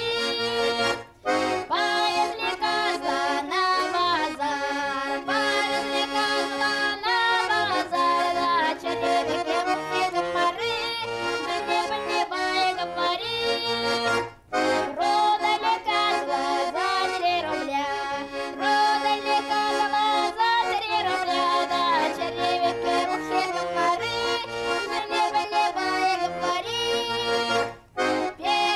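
Instrumental folk tune played on an accordion, with full sustained chords. The tune breaks off briefly about a second in, again halfway through, and near the end.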